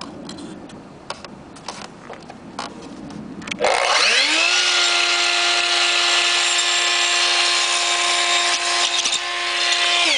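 A few light clicks and knocks of the molding and support being handled, then an electric miter saw starts about three and a half seconds in, whining up to speed. It runs steadily while it cuts the Styrofoam crown molding, and is switched off near the end, its pitch starting to fall as the blade spins down.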